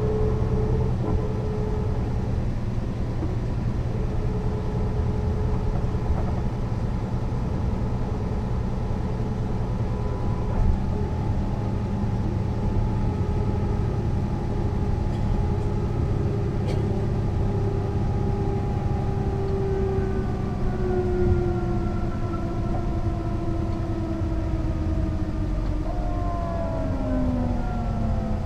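Mercedes-Benz O 405 NÜ bus under way: a steady diesel drone with a whine that holds its pitch, then falls steadily over the last ten seconds or so as the bus slows.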